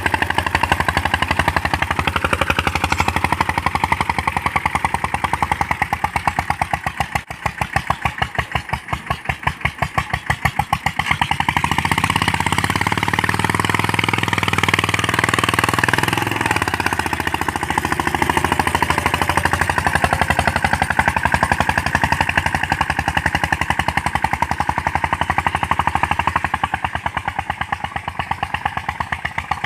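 Mahindra Yuvraj 215 NXT mini tractor's single-cylinder diesel engine running steadily with a fast even beat while pulling a five-tine cultivator. The engine eases off for a few seconds about a quarter of the way in, then comes back heavier under load.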